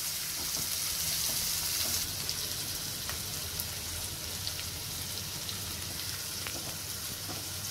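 Sliced onions, curry leaves and green chillies sizzling steadily in hot oil in a non-stick kadai, with a few faint ticks of spattering oil; the sizzle eases a little after about two seconds.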